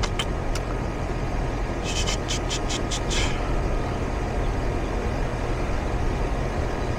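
Outdoor air-conditioning condenser unit running steadily, its compressor humming under the rush of the condenser fan. A quick run of small clicks comes about two to three seconds in.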